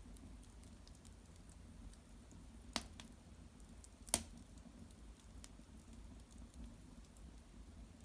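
Wood fire of cedar branches and bark burning in a hearth, crackling faintly with two sharp pops, the louder one about four seconds in.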